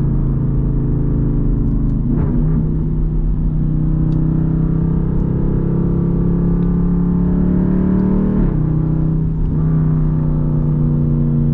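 Straight-piped Jeep Grand Cherokee SRT's 6.4-litre HEMI V8 exhaust droning under light throttle in traffic. The note climbs gently, then drops about eight seconds in as the transmission shifts up.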